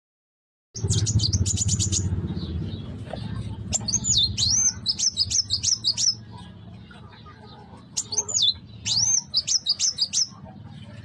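A young kuwul bird singing: a quick run of high chirps about a second in, then two bouts of rapid, sweeping high whistled notes. A steady low rumble runs underneath, louder in the first half.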